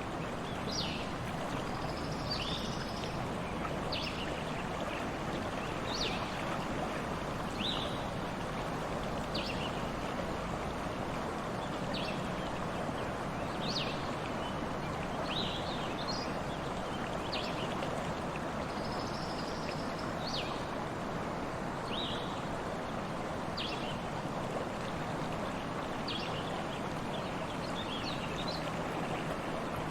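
Stream water flowing steadily, with a bird chirping over it: short high calls repeated about every one to two seconds.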